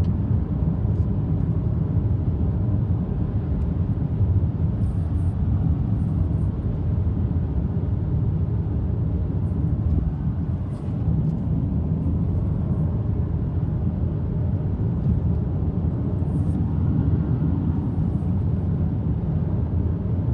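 Car in motion, heard from inside the cabin: a steady low rumble of engine and road noise that dips briefly about halfway through, with a few faint ticks and rattles.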